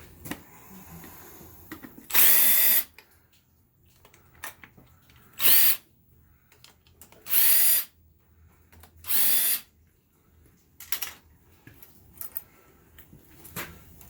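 Cordless power tool run in four short trigger pulls of under a second each, its motor whine rising and falling with each pull, as fasteners are spun off the engine, with light clicks between.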